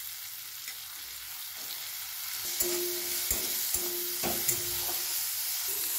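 Diced potato and eggplant sizzling in hot mustard oil in a kadai (wok). From about halfway in, a metal spatula scrapes and knocks against the pan as the vegetables are stirred.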